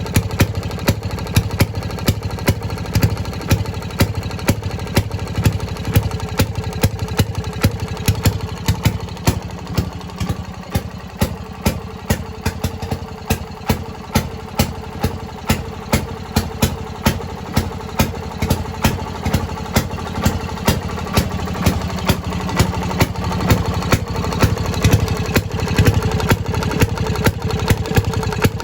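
Fairmont RO-C two-stroke rail car engine running slowly, with sharp firing pops about two to three a second.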